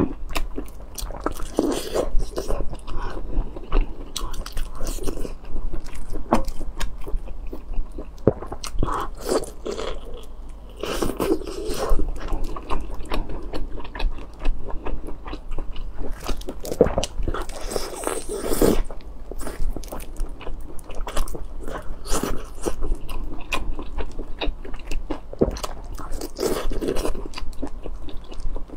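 A person chewing and biting braised pork intestines close to a clip-on microphone: a continuous run of mouth clicks and chewing noises, with louder spells about twelve seconds in and again around eighteen seconds.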